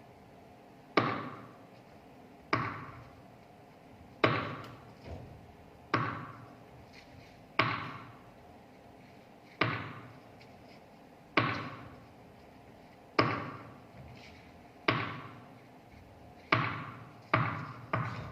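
A single sharp strike repeated slowly, about every one and a half to two seconds, each ringing out briefly before the next; near the end the strikes come faster.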